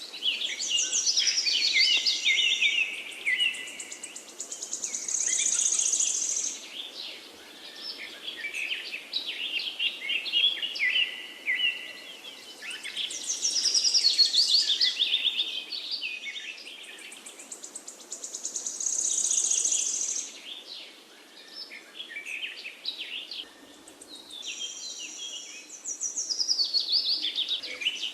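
Several forest birds singing at once: overlapping high chirps, trills and whistles in phrases that swell and fade every few seconds, over a faint steady hiss.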